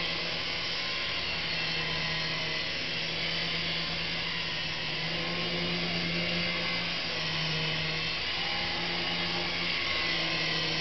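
Syma S109 Apache 3-channel micro RC helicopter in flight: its small electric motors and rotors make a steady whirring hum. The pitch rises and dips slightly a few times in the middle as the throttle changes.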